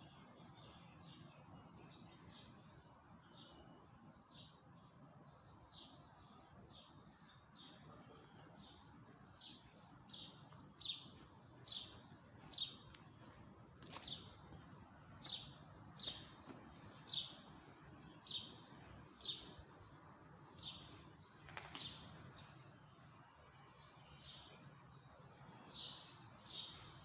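A small bird chirping over and over, short high chirps about once a second, getting louder about ten seconds in, over a faint steady hiss. Two sharp clicks stand out partway through.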